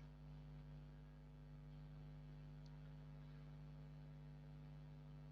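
Near silence: a steady low electrical hum from the recording chain, with one faint tick a little under three seconds in.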